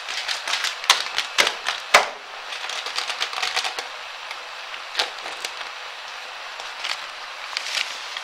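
Bacon and vegetables frying in a pot: a steady sizzle with irregular sharp pops and crackles, the loudest about one and two seconds in.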